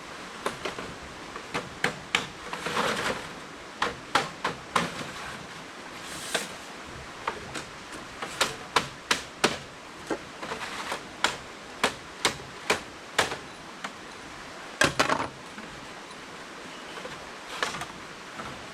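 Irregular series of sharp tool strikes on bamboo, some in quick runs of two or three, with a couple of longer scraping sounds between them; the strikes thin out over the last few seconds.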